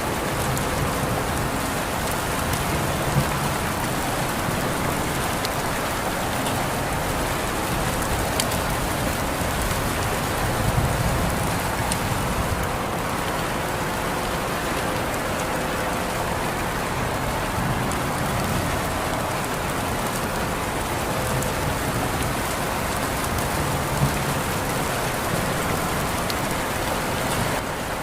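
Steady rain falling, an even hiss, with a few louder drops ticking now and then.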